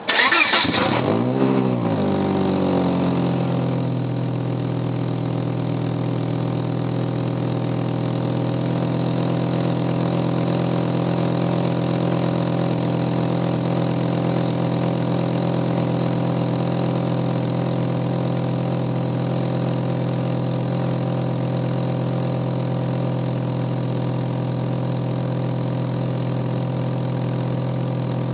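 Volvo 850's inline five-cylinder engine starting from cold: it catches abruptly, the revs flare up and fall back over the first few seconds, then it settles into a steady fast idle.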